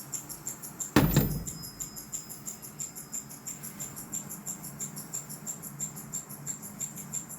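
A telephone handset is set down with a sharp clunk about a second in, followed by a faint brief ringing. Underneath, a steady high-pitched chirping pulses about three or four times a second.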